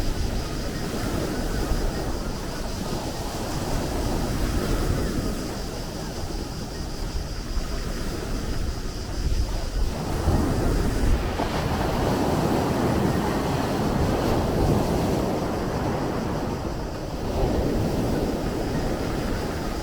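Sea surf: waves breaking and washing in as a steady rushing noise, swelling louder about ten seconds in and again near the end, with a low rumble of wind on the microphone.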